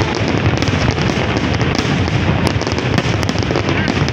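Aerial fireworks going off in a continuous barrage: a dense rumble of shell bursts with many sharp crackles and pops.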